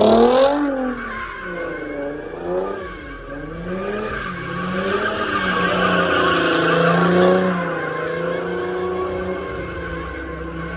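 Car engine revving hard up and down in repeated surges with tyres squealing, as a car spins donuts. A sharp rev peaks right at the start, then falls and surges again several times.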